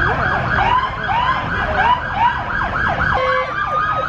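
Emergency vehicle sirens stuck in traffic. One yelps in fast rising sweeps, about four to five a second, a second yelps more slowly alongside it, and a third siren's long, slowly rising wail comes in about three seconds in.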